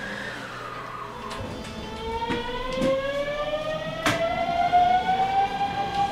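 An electric train's motor whine rising in pitch as the train pulls away and gathers speed, then holding a steady pitch near the end, over the rumble of the running train. A few sharp knocks are heard along the way.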